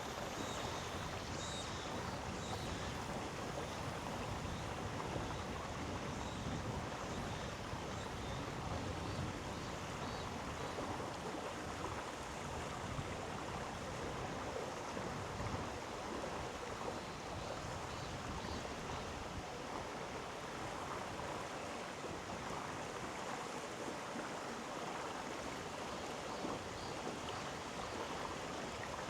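Mountain gorge stream flowing over rocks, a steady, even rush of water.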